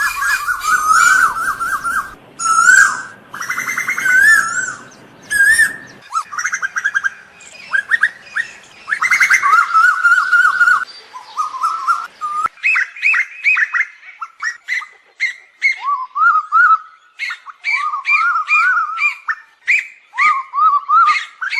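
Asian koel calling: loud, repeated whistled notes in quick series. About twelve seconds in, the longer warbling phrases give way to shorter, separate notes.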